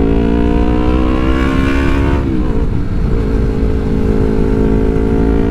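Yamaha R3's parallel-twin engine pulling under acceleration on the move, its pitch rising, then dropping at an upshift a little over two seconds in and climbing slowly again.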